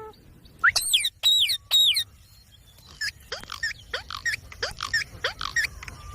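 Ringneck parrot calling: three loud, high squawks with bending pitch about a second in, then a run of shorter, quicker calls, about two a second.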